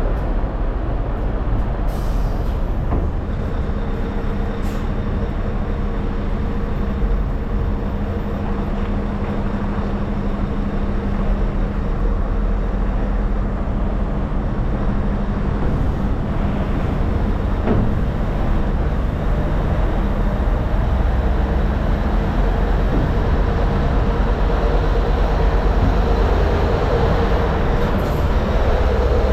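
Scania 770S truck's V8 diesel engine running steadily under way, with road and tyre noise, a constant low rumble.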